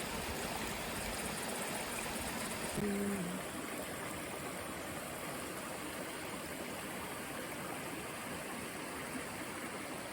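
River water running steadily, an even rushing hiss. About three seconds in there is a brief low hum.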